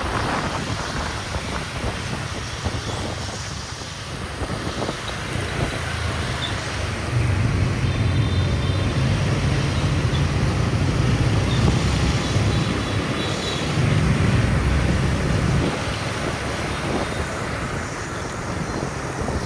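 Riding a motorbike through city traffic: the engine running with road and wind noise on the microphone, the low rumble growing louder for several seconds in the middle.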